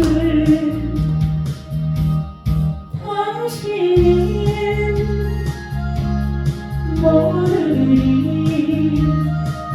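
A trot song sung over its accompaniment: a voice holds and slides through long notes of the melody, with a bass line and a steady ticking beat underneath.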